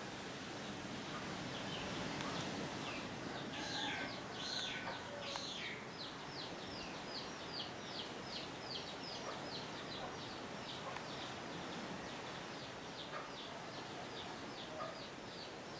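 A bird calling in a long run of short, high chirps, each sliding down in pitch. The chirps start a few seconds in, louder and irregular at first, then settle into an even pattern of about three or four a second.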